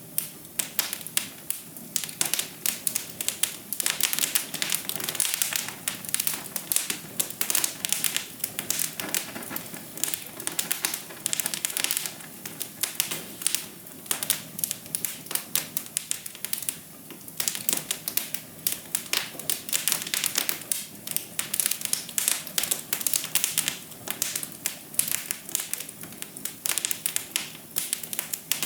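Wood fire crackling in a fireplace: a dense, irregular stream of sharp pops and snaps over a soft, steady hiss.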